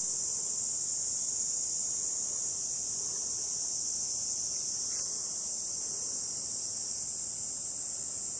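Dense chorus of insects, a steady high-pitched shrill buzz that does not change.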